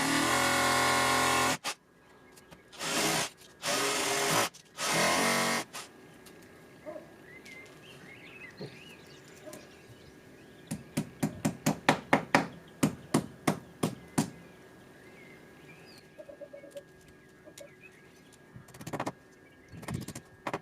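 Power drill running in short bursts while holes are drilled to mount the doorbell, followed a few seconds later by a quick run of about fifteen sharp knocks, roughly four a second.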